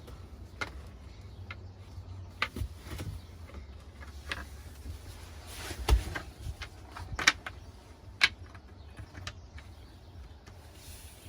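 Scattered light clicks and taps over a low steady hum, with a few sharper knocks around six to eight seconds in.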